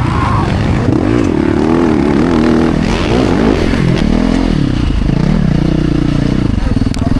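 Motocross bike engines revving hard, their pitch rising and falling again and again with the throttle and gear changes.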